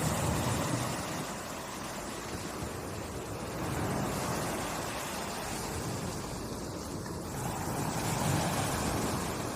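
Ocean waves washing in, a steady rush of surf that swells three times, about every four seconds.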